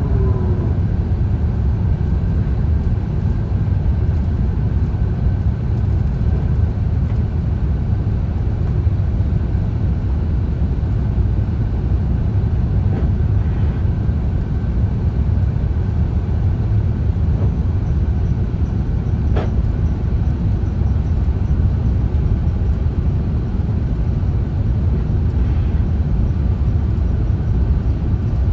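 Steady low rumble of an Airbus A350-1000 in motion, heard from inside the aircraft: engine and airflow noise with a faint high hum above it. There is one light click about two-thirds of the way through.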